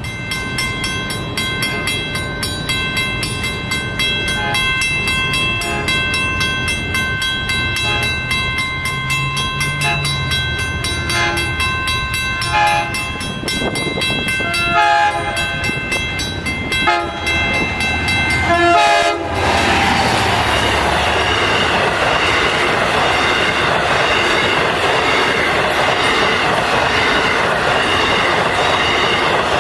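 A Long Island Rail Road push-pull train approaches with a steady high ringing tone and sounds its horn in several short blasts. At about 20 seconds in, the loud rush and rumble of the passing train's wheels and cars takes over, with a faint squeal of wheels on rail.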